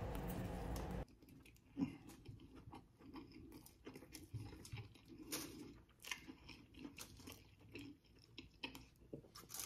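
A person chewing a mouthful of burger close to the microphone: faint, irregular wet clicks and smacks of chewing.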